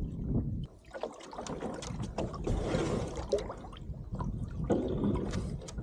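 A canoe being paddled: irregular paddle splashes and drips, with light knocks against the hull.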